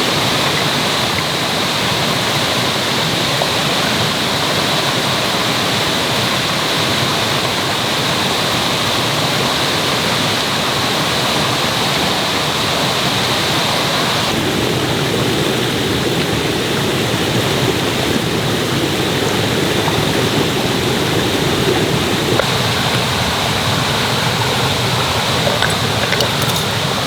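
Mountain stream rushing over rocks in a loud, steady wash of water noise. Its tone shifts abruptly about halfway through and again later on.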